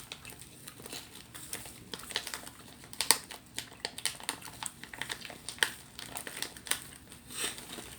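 Crinkling of a plastic snack packet being handled, with irregular sharp clicks, the loudest about three seconds in and twice more later.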